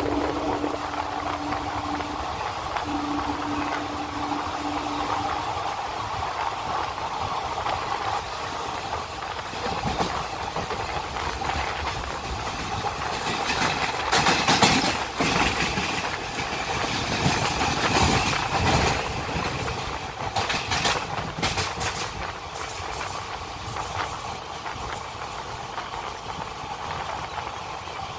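Moving passenger train heard from inside a carriage at an open window: the steady rumble and rush of the running train, with spells of sharp wheel clatter over the track about halfway through. A steady low tone sounds twice in the first few seconds.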